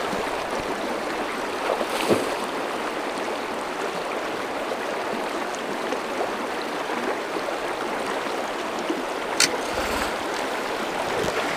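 Steady rush of flowing river water, with two brief sharp clicks, one about two seconds in and one near the end.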